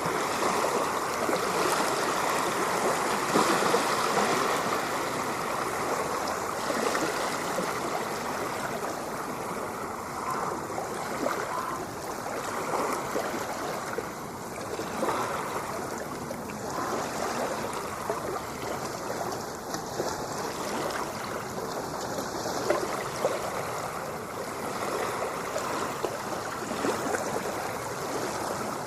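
Ocean surf washing without a break: a steady rush of churning water, a little louder in the first few seconds.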